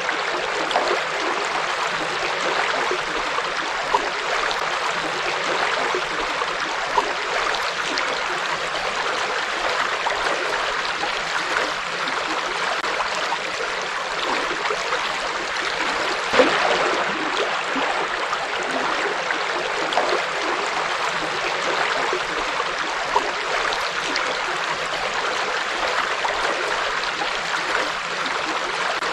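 A river flowing over rocks: a steady rush of water with small splashes and gurgles breaking through now and then.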